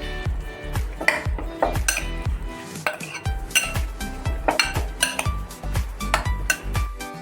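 Metal utensils clinking and scraping against a dish or bowl, as in mixing food, over background music with a steady beat.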